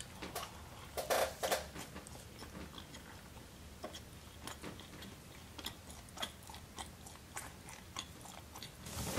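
A person biting into and chewing a chocolate-glazed yeast donut close to the microphone: a quiet run of small wet mouth clicks and smacks, with a louder cluster about a second in.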